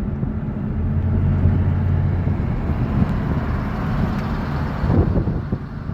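Car engine and road noise while driving slowly, a steady low drone.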